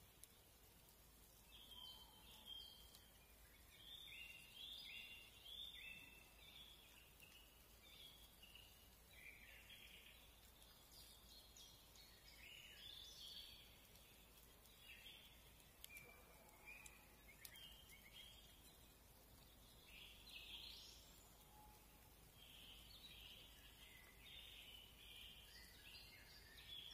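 Faint woodland birdsong: clusters of short, quick high notes that come and go every few seconds over a quiet background hiss.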